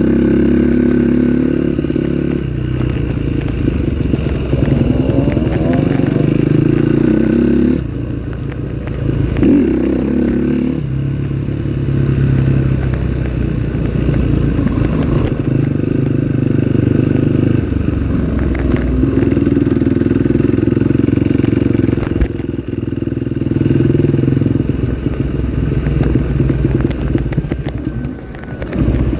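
Trail motorcycle engine running under changing throttle, its pitch rising and falling. The engine eases off briefly about eight seconds in and again near the end.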